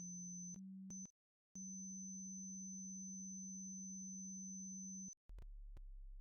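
Synthesized pure sine tones from the Harmonics of Nature tuning scale. A steady low tone breaks off about half a second in, falls silent briefly, and returns until about five seconds in. It then gives way to a deeper tone near the end.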